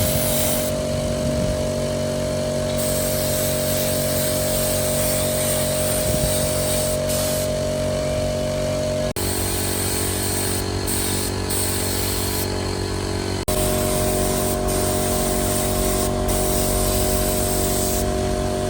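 Wood lathe running: a steady motor hum under the hiss of a turning tool cutting into the spinning wood. The sound switches abruptly twice, about halfway through and again a few seconds later, each time to a hum of a different pitch.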